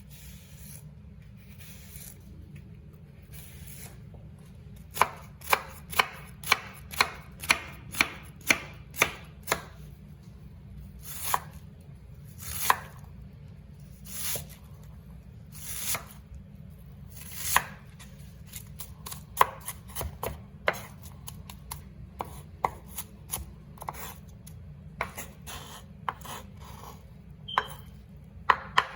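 Kitchen knife chopping on a cutting board: sharp strokes about two a second for several seconds, then slower, irregular cuts, as vegetables for stuffed peppers are cut up.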